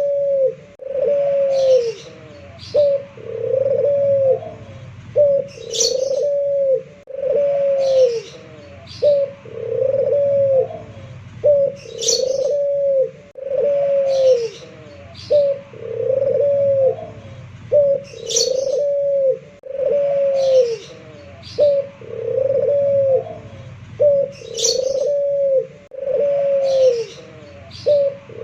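Puter pelung, a local Barbary (ringneck) dove, cooing in a long repeated series of arched, drawn-out coos that cycle in phrases about every six and a half seconds. Short high chirps come back with each phrase.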